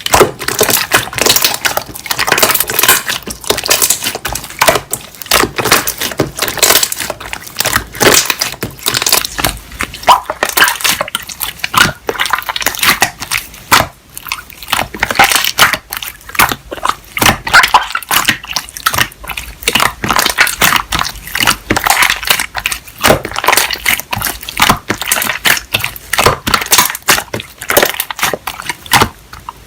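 Slime being squeezed, folded and pressed by hand, giving a dense run of crackling pops and clicks.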